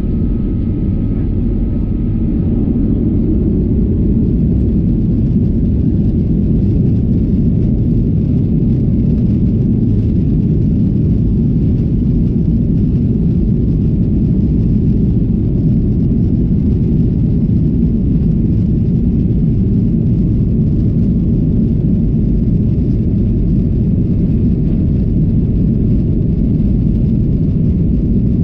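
Steady low rumble inside the cabin of a Boeing 737-800, from its two CFM56-7B26 engines and the airframe, heard from a window seat. It gets a little louder about four seconds in, then holds steady.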